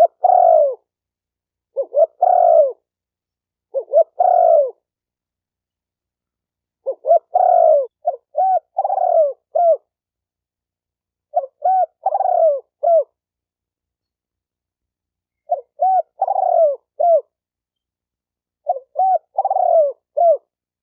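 Spotted dove cooing in repeated phrases about every two to four seconds. The first phrases are short, and from about seven seconds in each phrase is a longer coo followed by a few short quick coos.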